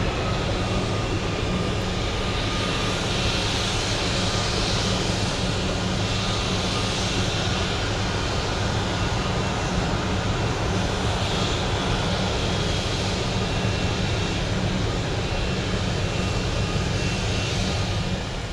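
Jet airliner's engines running: a steady rushing noise with a high whine held on one pitch, cutting off suddenly at the very end.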